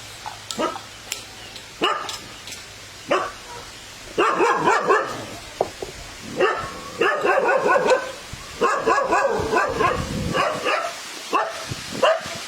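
A dog barking repeatedly: a few single barks, then quick runs of barks one after another.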